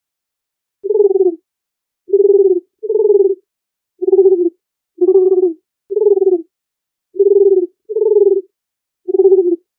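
Dove cooing: nine short, low coos, each about half a second long, several coming in quick pairs.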